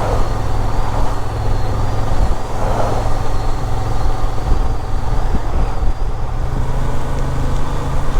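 Motorcycle engine running steadily while riding, with wind and road noise over it; the engine note rises slightly about six and a half seconds in.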